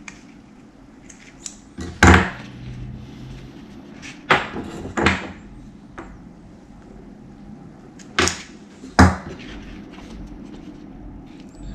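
Five hard knocks at uneven spacing, the first and last the loudest, over faint background hiss.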